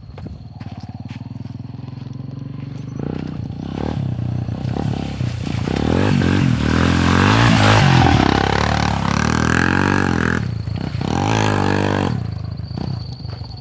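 Motorcycle engine being revved hard, its pitch climbing and dropping again and again, getting louder toward the middle and easing off near the end.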